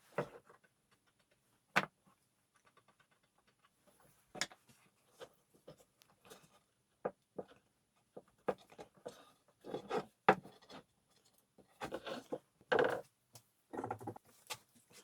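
Irregular handling noises at a workbench: scattered sharp clicks and small knocks, with a few short bursts of rubbing or scraping in the second half.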